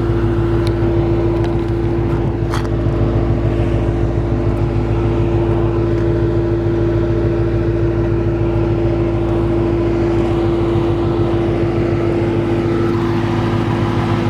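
The 6.1-litre Hemi V8 of a 2006 Chrysler 300 SRT8 idling steadily through an aftermarket exhaust.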